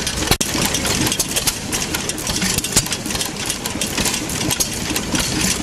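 Side-shaft hit-and-miss gas engine running, a dense stream of rapid clicks and knocks from its valve gear and side-shaft cam over the engine's exhaust.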